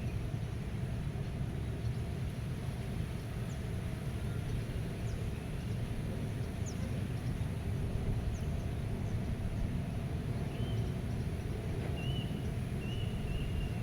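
Outdoor meadow ambience: a steady low rumble with birds giving several short chirps in the last few seconds, and faint high ticks in the middle.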